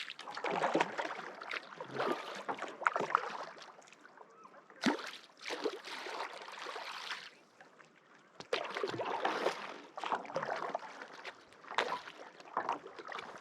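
Kayak paddle blades dipping and pulling through calm lake water: splashing and dripping in stroke after stroke, in about four bursts each a couple of seconds long, with quieter gaps between them.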